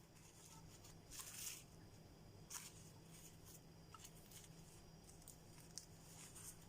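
Near silence: a steady low electrical hum with a few faint, brief rustles, the clearest about a second in and again near the end.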